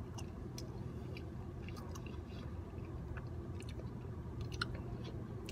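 A person chewing food, with scattered small mouth clicks and crunches, over a steady low hum.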